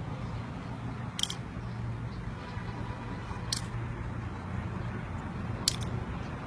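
Three sharp, brief clicks about two seconds apart over a steady low hum.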